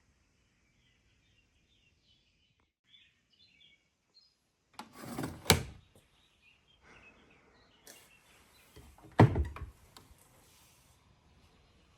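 Faint bird chirping, then two loud knocks about four seconds apart.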